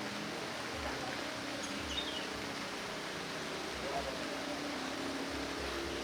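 Steady outdoor background hiss with low wind bumps on the microphone and a couple of faint, short bird chirps about two seconds in.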